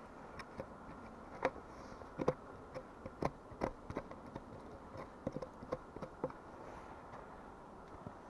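Irregular light knocks and clicks of hand tools working wood, about fifteen in a few seconds, with the loudest near the middle, over a steady hiss.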